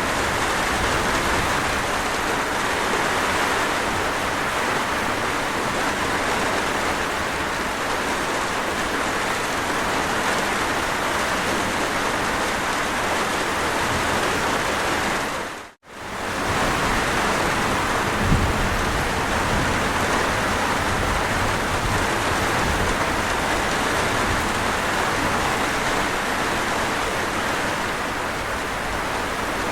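Steady heavy rain, an even hiss of falling water. About halfway through it fades out to silence for a split second and straight back in.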